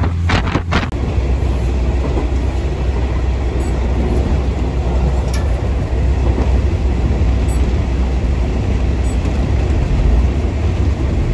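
Loud, steady rumble of a moving passenger train carriage rolling along the track, heard from on board, with a few gusts of wind buffeting in the first second.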